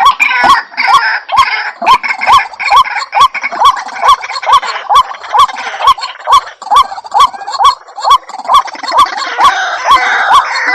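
White-breasted waterhen (ruak-ruak) calling: a loud, rapid series of short, hooked notes repeated about two to three times a second, with higher chattering calls layered above.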